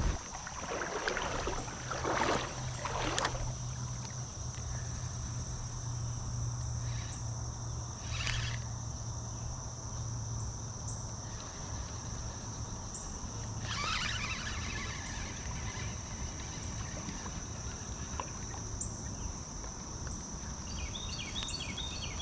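Insects trilling steadily at one high pitch, with a low hum through most of it and a few brief rustling or splashing noises.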